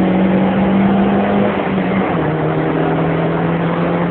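Suzuki Ignis engine running hard, heard from inside its cabin over road and wind noise; its steady note drops to a lower pitch about halfway through.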